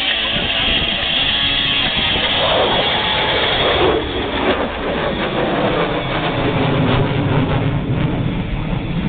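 F-22 Raptor jet flying past, its whine falling in pitch a few seconds in and giving way to a deep low rumble, over guitar music from the public-address system.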